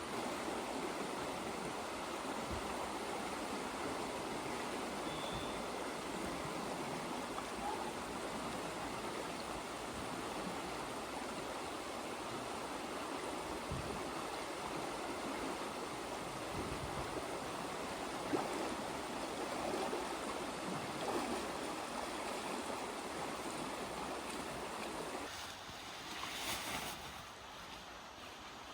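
Glacial meltwater river rushing steadily. The sound suddenly becomes thinner and quieter near the end.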